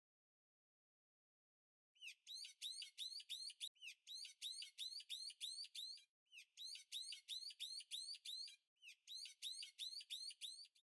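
A bird-like chirping sound effect: rapid high upward chirps, about six a second, in four short runs with brief gaps, starting about two seconds in.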